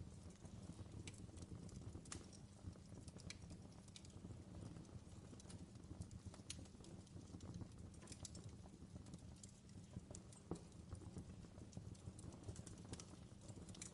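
Faint fireplace fire crackling, with irregular sharp pops over a low, steady rumble.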